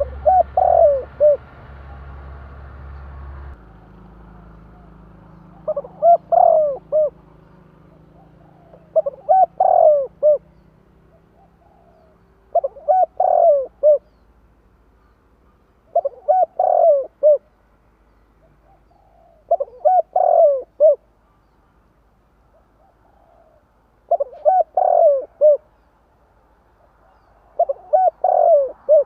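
Spotted dove (tekukur) cooing: the same short phrase of several coo notes, repeated eight times about every three and a half to four seconds.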